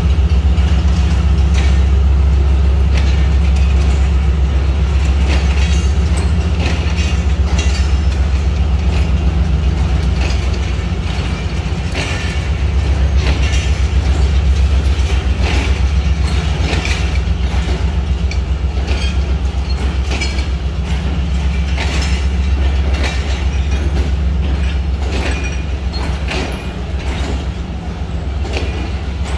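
Passenger coaches of a departing express train rolling past, their wheels clattering irregularly over rail joints and points above a steady low rumble.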